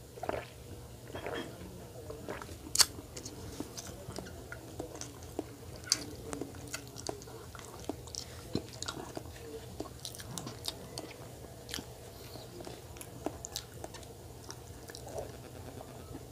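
Close-miked mouth sounds of someone chewing a soft chocolate marshmallow-filled donut: wet smacks and small clicks come irregularly throughout. One sharper click stands out about three seconds in.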